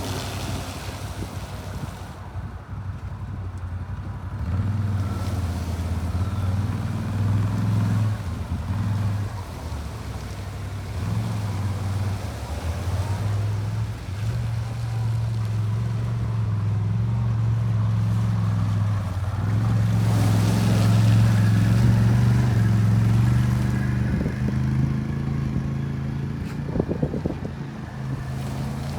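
Truck engine labouring under load as it spins its street tires in deep mud, the revs swelling and easing in spells while it digs itself in.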